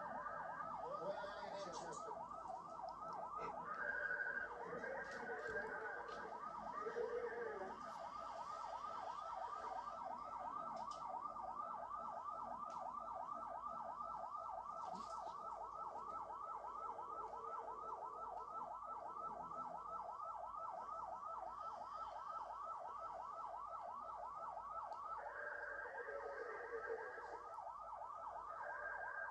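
Police car siren on a fast yelp, its pitch sweeping up and down about four times a second, with other short tones over it during the first several seconds and again near the end.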